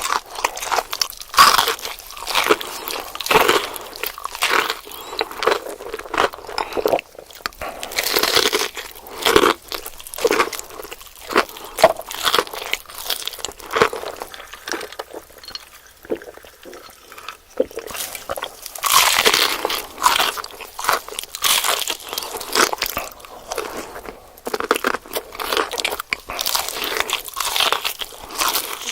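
Close-miked eating of crispy fried food: loud, irregular crunching bites and chewing. A quieter patch of softer chewing falls about the middle.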